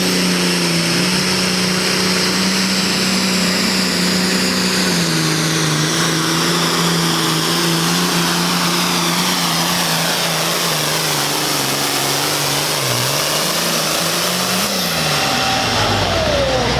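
Competition pulling vehicle's engine running at full throttle under load as it drags the weight sled. The pitch holds steady, dips and surges once near the end, then the engine note falls away.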